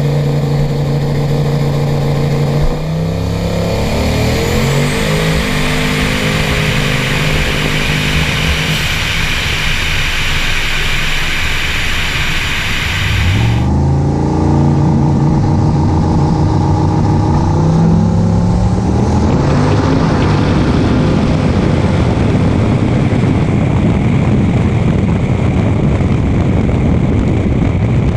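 Drag-racing vehicle engines at full throttle. A steady drone climbs in pitch in steps as the vehicle accelerates, then turns into a loud rushing noise. After an abrupt change about halfway through, a second run climbs the same way.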